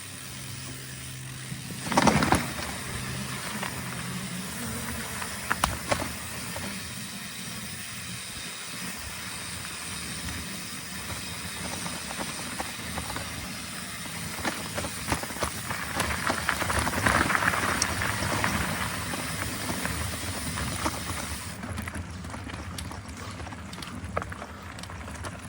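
Mountain bike being ridden on a trail: steady rolling and wind noise, with sharp knocks about two and six seconds in and a louder stretch a little past the middle.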